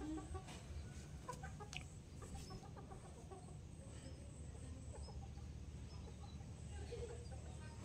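Chickens clucking faintly with short, scattered calls over a low steady rumble.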